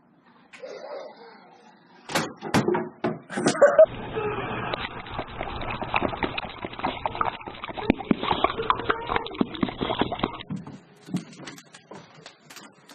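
A dog's noises mixed with a person's voice, after a few sharp knocks; the busy stretch cuts off suddenly about ten seconds in.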